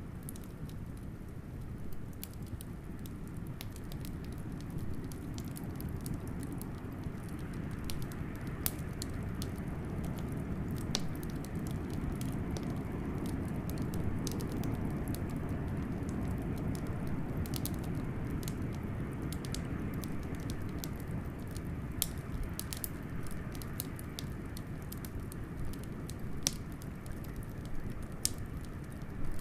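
Wood fire crackling with scattered sharp pops over a low, steady rush of howling blizzard wind; the wind swells through the middle and eases again, and the pops come thicker toward the end.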